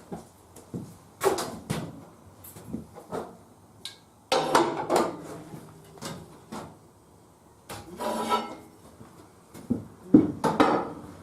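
Irregular knocks, clanks and scrapes of hard objects being handled, with longer rattling scrapes about four seconds in, around eight seconds and near the end.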